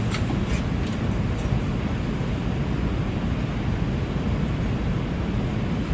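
Steady low rumble and hiss inside an R142 subway car, holding at an even level throughout.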